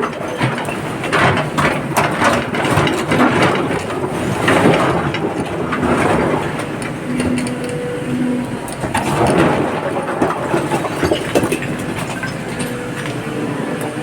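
Heavy machinery running at a quarry, with an irregular clatter of knocks and rattles like rock and gravel being handled. Short steady tones sound twice about halfway through.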